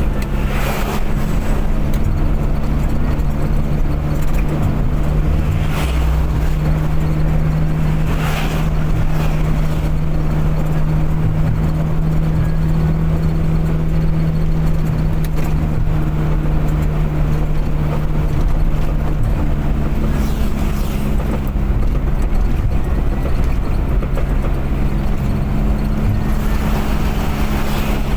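Car driving at steady cruising speed: an even engine drone over tyre and road noise, with several brief whooshes as other vehicles pass.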